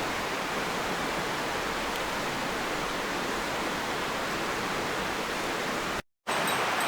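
Steady, even rushing noise, like running water in a stream, broken by a brief dead-silent cut about six seconds in.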